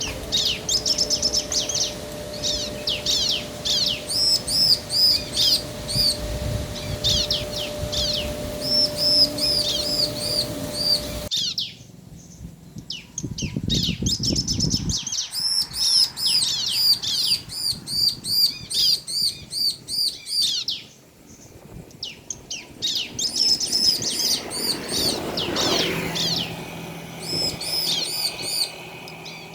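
Bar-winged prinias (ciblek), male and female, calling back and forth in rapid series of high, repeated chirps. The background changes abruptly about 11 seconds in and again about 21 seconds in, where recordings are joined; a steady low hum under the first part drops away at the first join.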